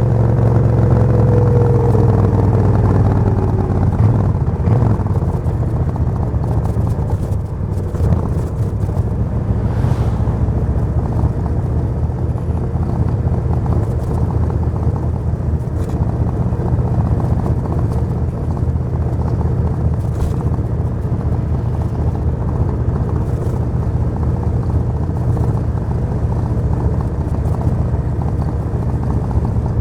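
Suzuki VS1400 Intruder's 45-degree V-twin engine running: the revs fall over the first couple of seconds, then it runs steadily at low revs.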